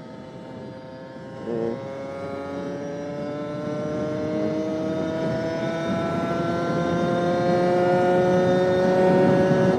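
MBK X-Limit 50's two-stroke engine pulling steadily in one gear, its pitch rising slowly and evenly as the bike gains speed, getting louder toward the end.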